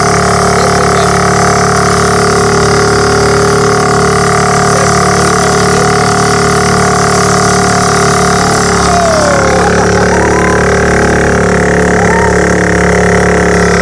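Bumper boat motors running steadily, with voices calling out over them now and then.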